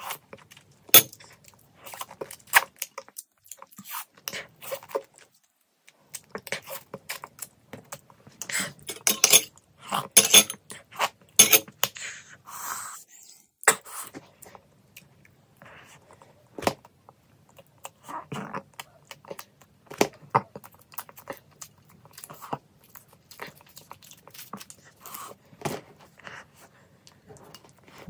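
Close-miked chewing and wet mouth clicks of someone eating chicken momos, in an irregular run of short smacks that is busiest around the middle.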